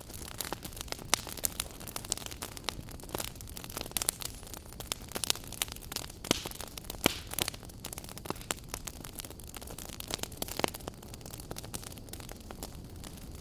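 Wood fire burning in a fireplace, crackling with frequent irregular sharp pops over a soft steady hiss.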